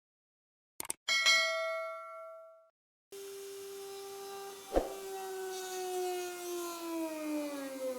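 A piece of metal is struck and rings with a bright, clear tone that fades. Then an electric power tool's motor runs steadily, and after a click about halfway through its pitch slowly falls as it winds down.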